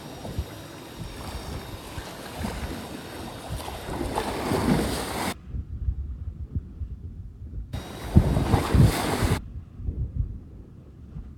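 Wind buffeting the microphone at sea, a rough low rumble that swells in gusts, with water and boat noise beneath. The higher sound drops out abruptly twice, for a couple of seconds each time.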